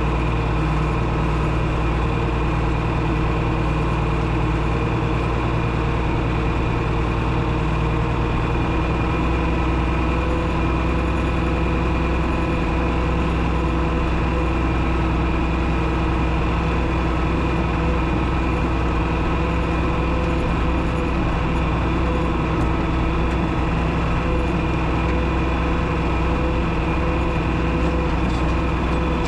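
John Deere 6030's six-cylinder diesel engine running steadily under load while pulling a moldboard plow, its low note shifting slightly about eight seconds in.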